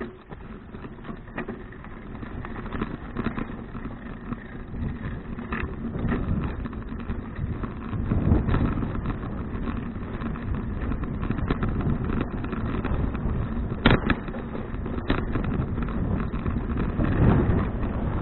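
Wind rushing over an action camera's microphone and road noise while riding a touring bicycle, with scattered rattling clicks; the rush swells louder about eight seconds in and again near the end.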